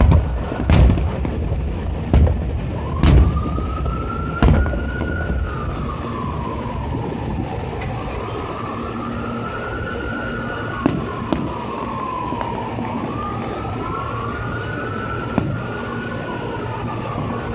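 Fireworks booming, about five bursts in the first four and a half seconds, then an emergency vehicle siren wailing, slowly rising and falling, joined near the end by a second siren. A few single pops from the fireworks come in between.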